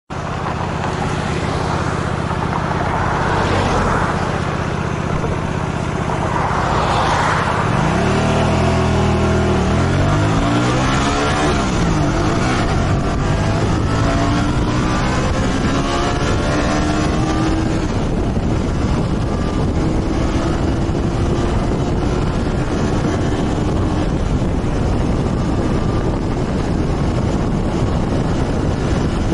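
Motorcycle engine running while riding. Its pitch rises and falls several times about a third of the way in, then holds steady.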